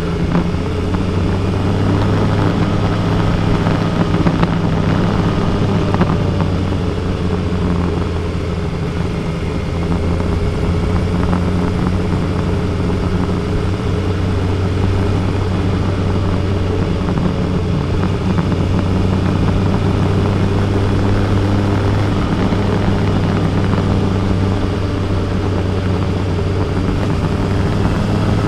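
Kawasaki Versys 1000 SE's inline-four engine running steadily while the motorcycle is ridden, with a constant rush of wind and road noise.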